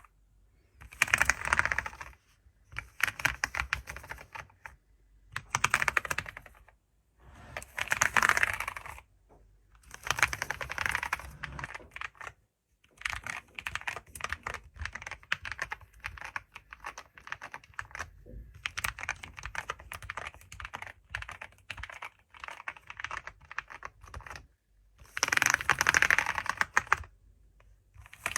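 Typing on a computer keyboard: quick runs of keystrokes in bursts of a second or two with brief pauses between. A few bursts are fast and dense, and the middle stretch has lighter, more spaced taps.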